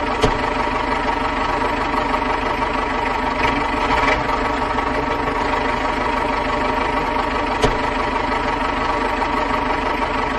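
Small motor running steadily with an even, droning hum, with a short click about a quarter second in and another near eight seconds.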